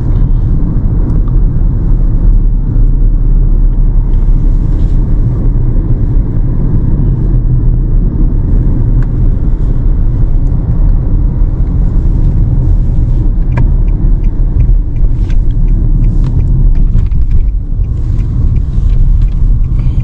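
Steady low rumble of road and engine noise inside a moving car, with a few faint ticks in the second half.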